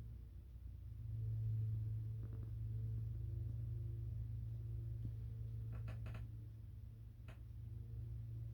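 Steady low hum, like a motor or appliance running, with a few short sharp clicks or chirps about six seconds in and one more a second later.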